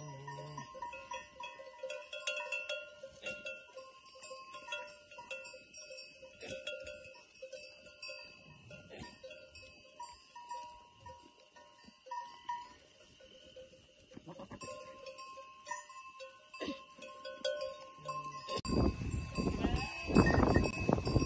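Bells on a flock of sheep clinking and ringing unevenly as the animals move. A louder, rough sound comes in near the end.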